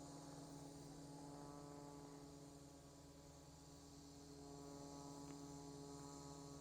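Near silence: a faint steady hum with a faint high insect chirring.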